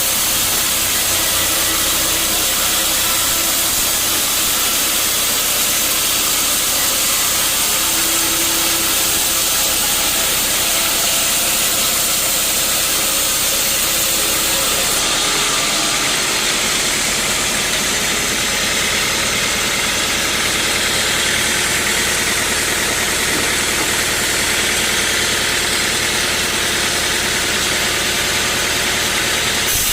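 Sawmill machinery running steadily and loudly, a continuous hissing machine noise with an engine-like hum; the hum deepens and steadies about halfway through.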